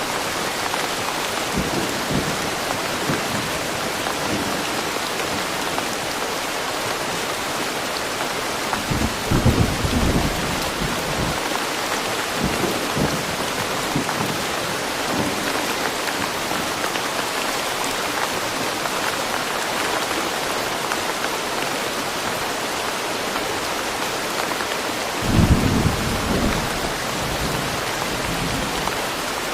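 Steady rain falling, with short low rumbles of thunder twice, about nine and about twenty-five seconds in.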